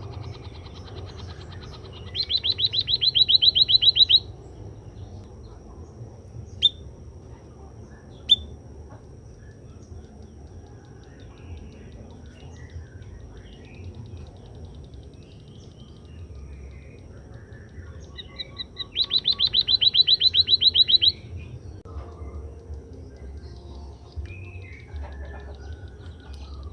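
White-headed munia (emprit kaji) singing in two rapid trills of sharp repeated notes, each about two seconds long and growing louder: one a couple of seconds in, one about two-thirds of the way through. Two single high chirps fall between the trills, over a steady low background rumble.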